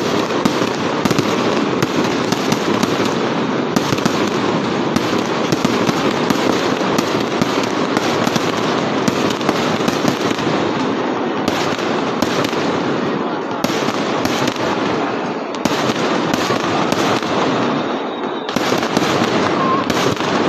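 Aerial fireworks bursting in a rapid, continuous barrage of bangs and crackles.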